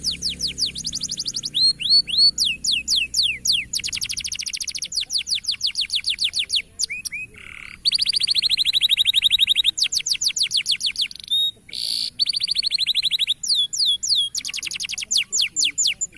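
Canary song: fast trills of repeated down-sweeping high notes, switching to a new trill every second or two, with a few held buzzy rolls, and stopping abruptly at the end.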